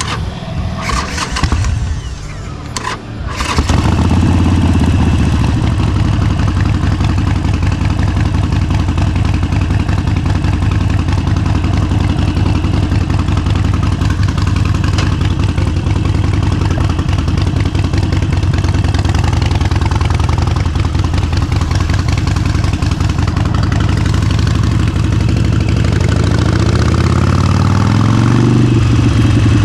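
Motorcycle engine starting about three and a half seconds in after a few clicks, then running steadily at idle; the revs rise over the last few seconds.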